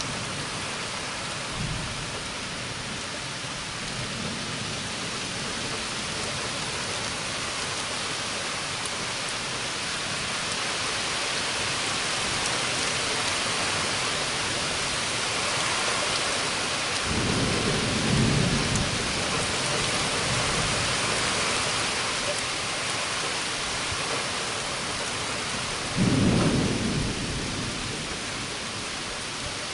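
Thunderstorm: rain falling steadily, with thunder rumbling twice, once a little past halfway and again near the end.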